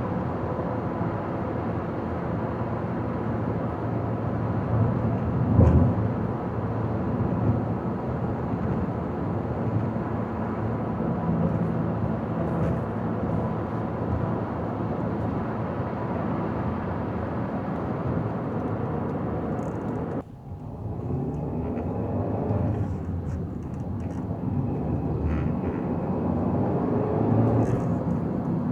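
Steady road and tyre noise of a car travelling along a highway, with a loud low thump about six seconds in and a sudden brief drop in the noise about two-thirds of the way through.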